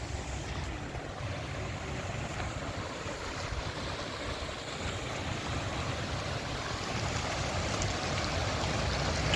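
Steady rush of flowing water, growing slightly louder near the end, with a low rumble beneath it.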